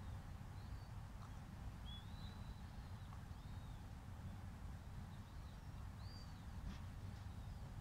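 Small birds chirping, short arching high calls repeated about once a second, over a low steady rumble.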